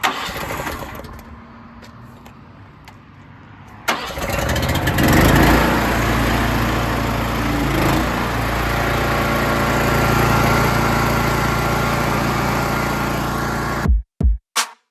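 Pressure washer's small gasoline engine starting: it turns over with a fast ticking for a few seconds, catches about four seconds in and then runs steadily and loudly until it cuts off abruptly near the end.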